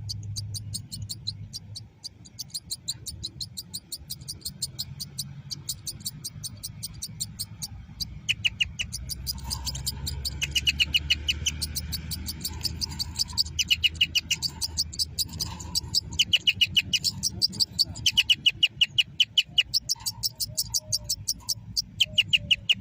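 Birds singing: a high, evenly repeated chirp several times a second throughout, with short rapid trills breaking in every few seconds from about a third of the way in.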